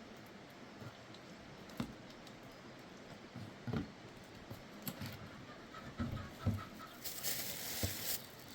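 Chickens clucking at an outdoor camp, among scattered knocks and thumps, with about a second of hiss near the end.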